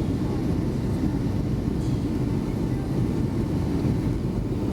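Steady low rumble of engine and airflow noise inside the cabin of a Boeing 757-200 in flight on its landing approach.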